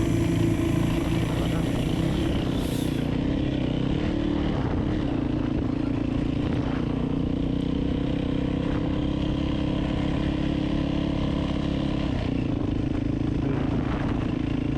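Vehicle engine running at a steady speed while travelling, its drone even throughout.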